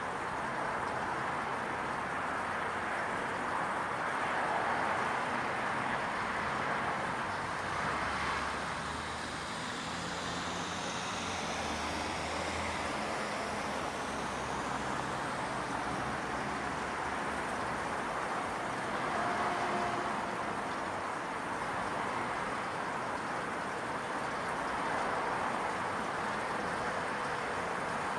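Steady hum of distant traffic, an outdoor urban background. A vehicle passes closer between about ten and fourteen seconds in.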